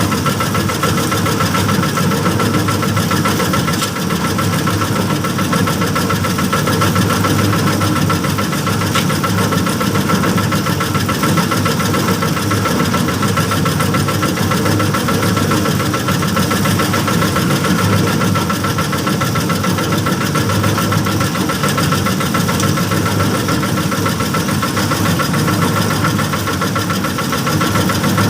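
Small boat-type petrol engine (mesin kano) running steadily at one constant speed, with a steady high-pitched whine over the engine note.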